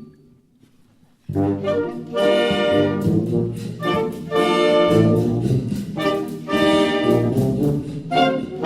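Concert wind band: after about a second of near silence the full band comes in abruptly with brass to the fore, playing a rhythm of short accented chords.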